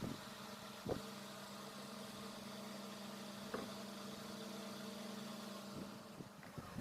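A motor running steadily with a low hum, which stops near the end, and two short knocks, one about a second in and one midway.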